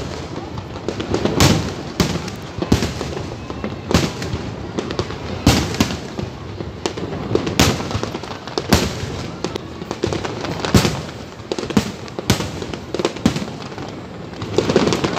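Aerial firework shells bursting in a display, a sharp bang every second or two with crackling between.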